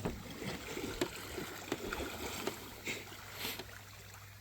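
Water splashing and lapping in many small, irregular splashes over a steady low hum.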